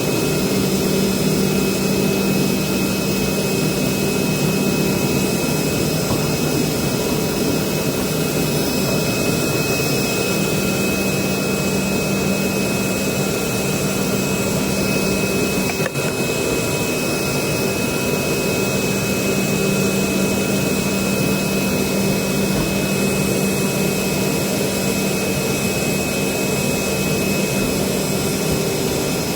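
Automatic CNC vibrating-knife fabric cutting machine running: a steady, loud machine whine with fixed tones, with one brief click about halfway through.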